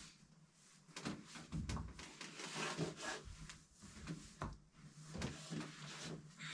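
Faint scattered knocks, clicks and rustling, as of things being handled and moved about in a small room.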